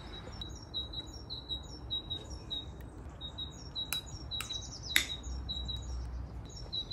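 Small birds chirping in quick repeated short notes, a few times a second, with a few sharp clicks about four to five seconds in, the last the loudest.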